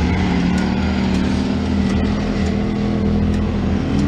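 An engine running steadily at a constant pitch, a loud, unchanging drone.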